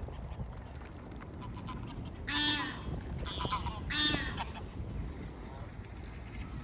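Honking calls of a large waterbird: two loud honks about a second and a half apart, with a fainter call between them, over a steady low background rumble.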